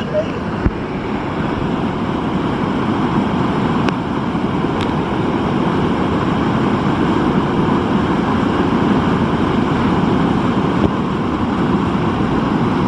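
Fast-moving water rushing steadily and loudly, with no let-up.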